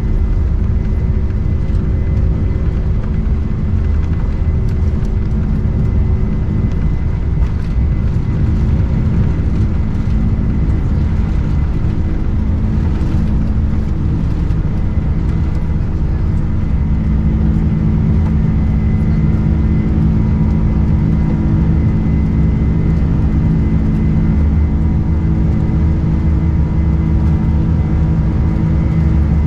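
Boeing 747-400 cabin noise heard from the upper deck: a steady, loud drone of the jet engines and airflow, with a few constant whining tones over a low rumble.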